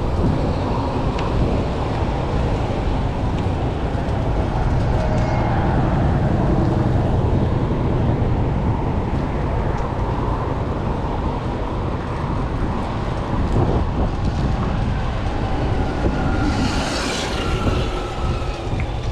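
City traffic noise with a heavy, steady low rumble. Near the end there is a brief hiss and a faint, slowly falling whine.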